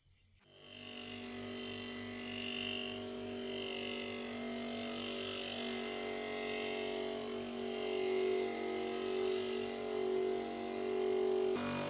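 Small electric power tool motor starting up about half a second in and running steadily, its tone shifting slightly near the end.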